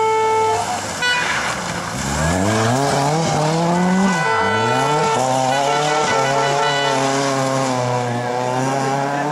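Historic rally car accelerating hard: the engine revs climb, drop sharply at a gear change about four seconds in, climb again and then hold high. A steady horn tone sounds briefly at the very start.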